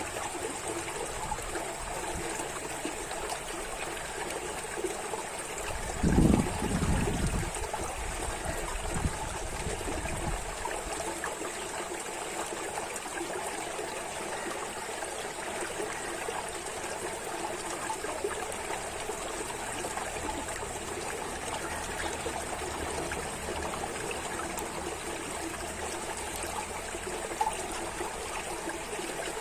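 Stream water trickling and flowing steadily over rocks. A brief low rumble stands out about six seconds in, with a weaker one a few seconds later.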